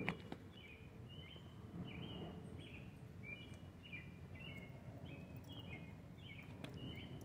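A bird chirping over and over, about two short high chirps a second, over a low steady background rumble. A single sharp click right at the start is the loudest sound.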